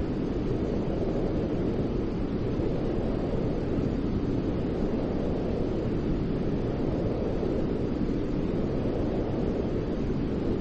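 Continuous white-noise sleep sound: an even, steady deep hiss with most of its weight low, unchanging and without rhythm.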